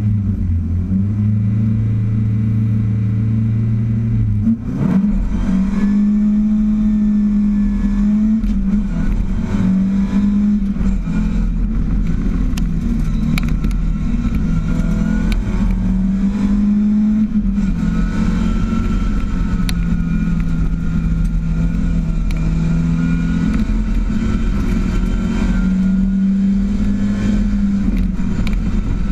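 Ford Escort RS 2000 race car's engine, heard from inside the cabin. It holds steady revs at first. About four and a half seconds in the revs dip briefly, then the engine runs hard for the rest of the run, its revs rising and falling again and again through the slalom.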